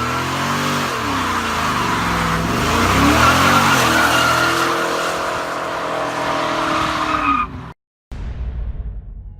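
2000 Pontiac Trans Am WS6's LS1 V8 revving up and down with tires squealing in a burnout. The sound cuts off abruptly near the end.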